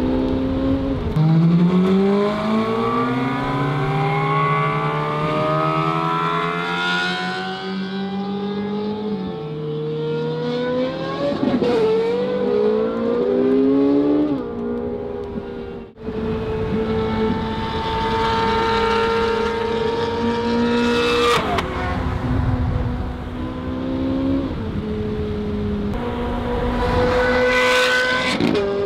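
Naturally aspirated Ferrari V8 with a high-pitched aftermarket exhaust, heard from inside the 458 Speciale's cabin, accelerating through the gears: the note climbs, then drops at each upshift, several times over. There is a sudden break about halfway through. Near the end a brief rush joins it as the straight-piped 430 Scuderia runs close alongside.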